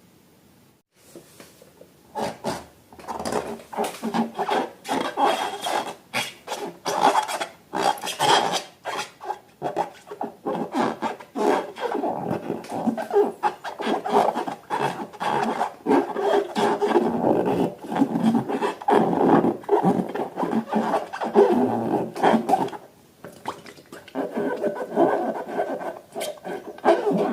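Rubber balloons being rubbed and squeezed by hand: a dense, irregular run of rubbing and squeaking strokes that starts about two seconds in and keeps going, with a short pause near the end.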